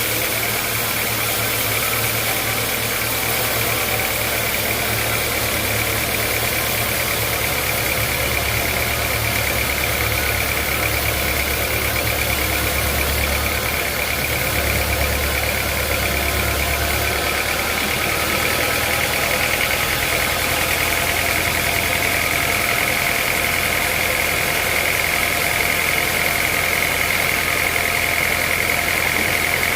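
Sawmill band saw running steadily, with a continuous high whine over a low motor hum.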